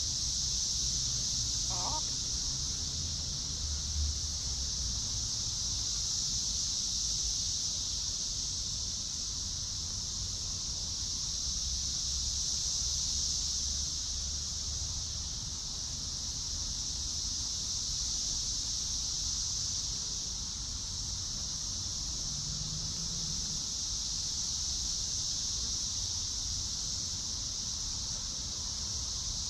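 Steady, high-pitched insect chorus, with a brief chicken call about two seconds in and a low rumble underneath.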